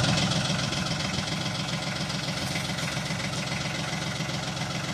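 Tractor engine idling steadily, its level easing down a little in the first second.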